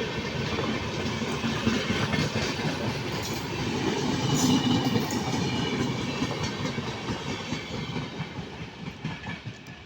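Train running along the rails, its wheels clattering over the rail joints. It is loudest about halfway through, then fades steadily as it draws away.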